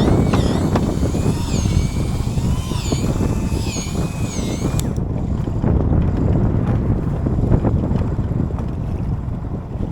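Wind buffeting the microphone on a small boat at sea, a steady low rumble. For about the first five seconds a wavering, whistle-like warble rises and falls above it, then cuts off suddenly with a click.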